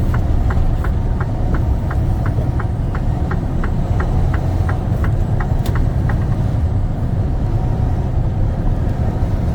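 Semi-truck cab on the highway: a steady low drone of the engine and road noise. Over it, a turn signal clicks at an even pace, about three clicks a second, stopping about six seconds in.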